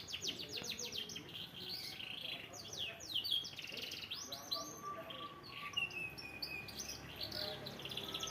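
Domestic canary singing a varied song of fast trills, quick rising and falling sweeps and one longer held whistle a little past the middle: the bird is warming up and working through its song.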